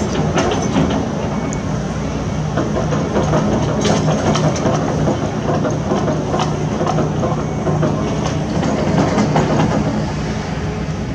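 Heavy construction machinery running: a steady diesel engine hum with irregular metallic clanks and knocks.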